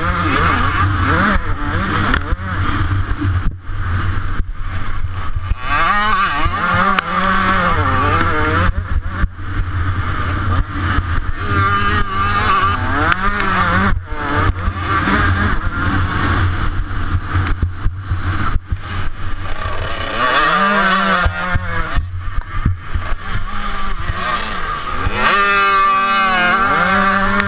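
A 125cc two-stroke motocross bike racing close to the microphone. Its engine revs up and falls back over and over as the rider shifts and blips the throttle, with brief throttle cuts. A steady low wind rumble lies under it.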